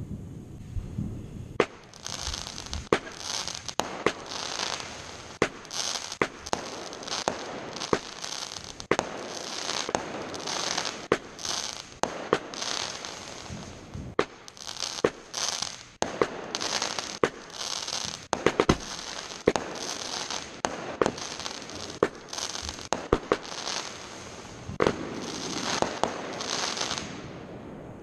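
Fireworks going off in a rapid barrage: many sharp bangs, about two a second, with hissing bursts between them. It starts about two seconds in and stops shortly before the end.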